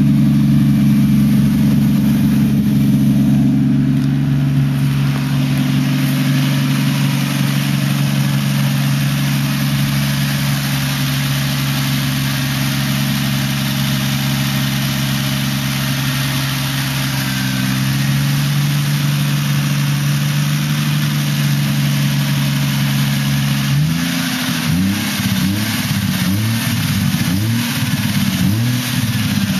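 Toyota 1JZ-GTE inline-six with a single GT35R turbo and Greddy titanium exhaust, idling steadily, then revved in quick repeated blips about once a second near the end.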